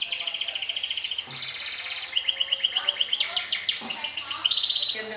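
Domestic canary singing a run of fast trills, each a rapid string of repeated high notes, switching to a new trill about every second.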